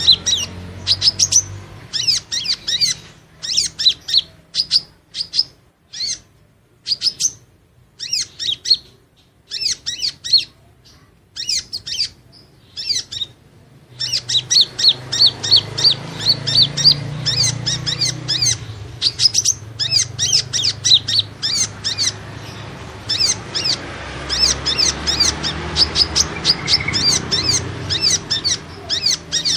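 Kolibri ninja sunbird's lure call: rapid series of short, high, sharp chirps. They come sparser and broken by pauses in the first half, then run fast and almost unbroken from about halfway.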